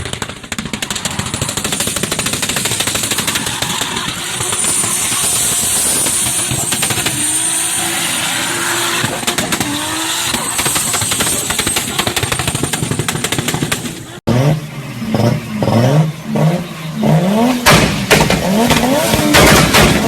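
Turbocharged car engine on a two-step launch limiter or anti-lag: rapid popping and banging from the exhaust. After an abrupt cut, an engine is revved in short repeated blips, each rising in pitch, and the rapid popping comes back near the end.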